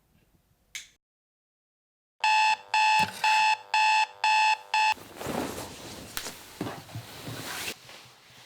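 Digital alarm clock beeping: six loud electronic beeps, about two a second, each a steady pitched tone. They are followed by a few seconds of rustling with a few thumps.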